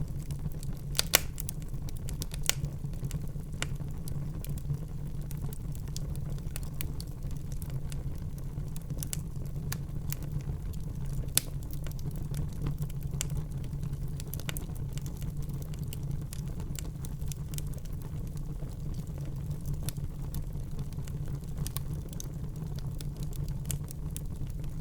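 Wood fire burning in a fireplace: irregular crackles and pops over a steady low rumble, with a few sharper pops, the loudest about a second in.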